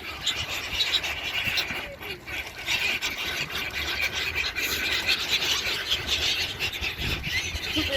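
A flock of seagulls calling over one another in a dense, continuous squawking chatter while being fed.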